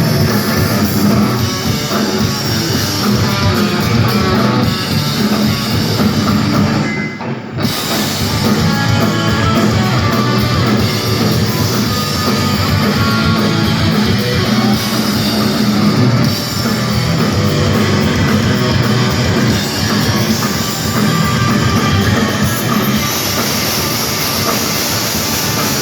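Punk rock band playing live at full volume: distorted electric guitars, bass and a drum kit, with a brief stop about seven seconds in before the band comes back in.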